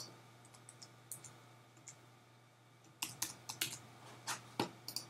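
Typing on a computer keyboard: a few scattered keystrokes, then a quicker run of key clicks from about three seconds in, over a faint steady low hum.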